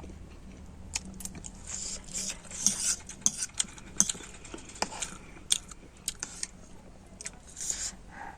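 Close-miked eating of instant noodles: chewing and biting, with many sharp wet clicks and several short hissy slurps.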